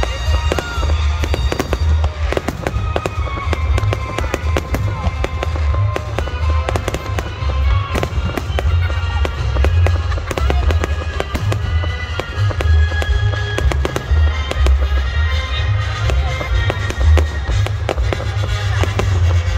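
Aerial fireworks shells bursting in rapid succession: a dense run of booms and crackling reports over a continuous low rumble.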